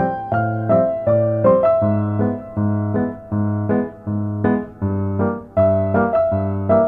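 Background piano music: a melody of single notes over a steady bass line, about two notes a second.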